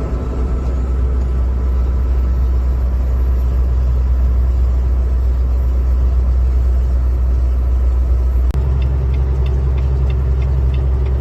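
Steady low rumble of a truck being driven, heard from inside the cab. About eight and a half seconds in there is a sharp click, after which the hum changes and light, regular ticking starts.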